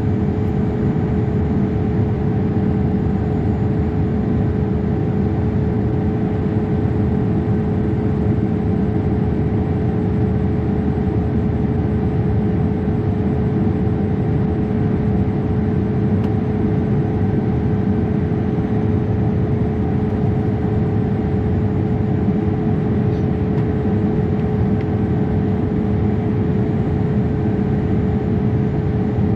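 Steady cabin noise inside a Boeing 787-8 airliner in flight: an even rush of engine and airflow noise with a constant hum running through it, unchanging throughout.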